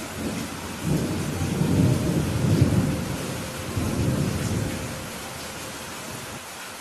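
Steady rain falling, with a roll of thunder that rumbles in about a second in, swells twice and dies away before the end.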